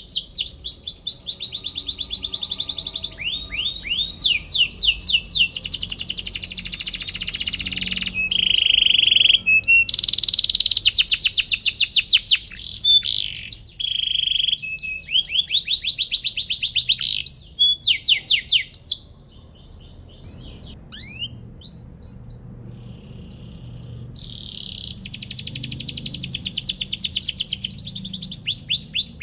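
Domestic canary singing long, rapid trills of repeated sweeping high notes. About two-thirds of the way through the song drops to a few scattered soft chirps, then the full trilling song starts again near the end.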